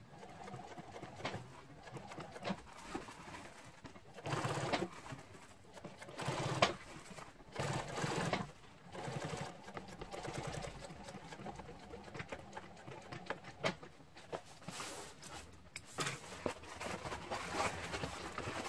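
Sewing machine stitching in several short runs of about a second each, stopping and starting between them.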